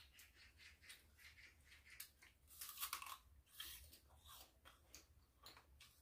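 Faint crunching and chewing of raw fruit and vegetables: a run of short crisp crunches, densest and loudest about halfway through.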